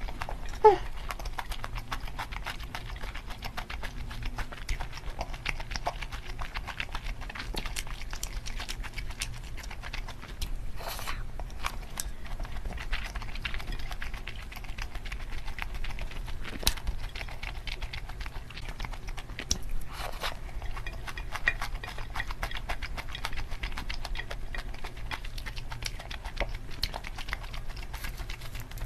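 Close-miked eating of kimchi fried rice: chewing and mouth clicks mixed with a spoon and chopsticks clicking and scraping on a ceramic plate, sped up to double speed so the clicks come thick and fast. A short sound that falls in pitch stands out near the start.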